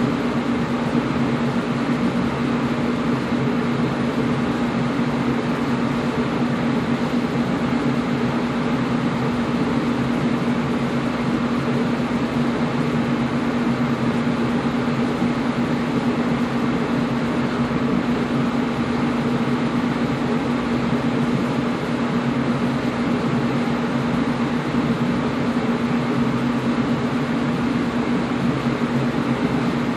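Air conditioner running steadily: a constant rushing of air with a low hum.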